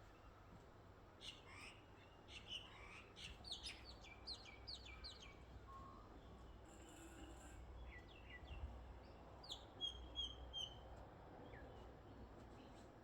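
Faint birdsong: a run of quick, high, falling chirps in the first few seconds and a few more near the end.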